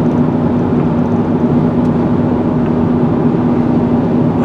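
Steady road and engine drone inside a moving car's cabin, with a constant low hum.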